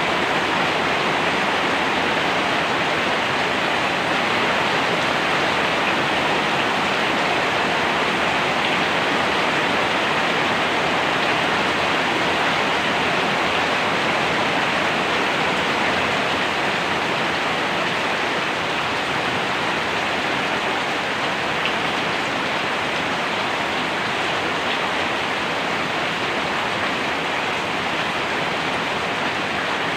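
Steady heavy rain: a dense, even hiss of falling rain with no breaks.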